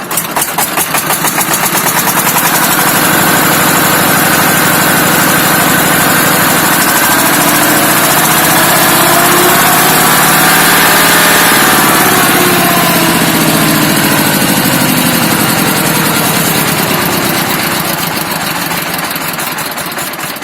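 ZS1100 single-cylinder diesel engine of a walk-behind tractor running. Its revs rise to a peak about halfway through, then fall back. At high revs it hums and howls loudly, which the owner takes for a failing counterbalance shaft bearing.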